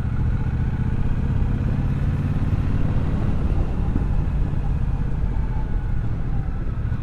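Triumph Bobber's 1200cc parallel-twin engine running steadily while the motorcycle is ridden along.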